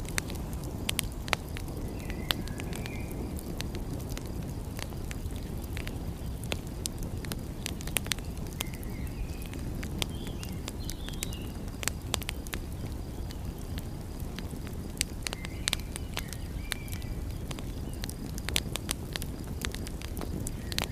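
Wood fire crackling, with irregular sharp pops, over a low steady rush of sea waves. Faint short high chirps come and go a few times.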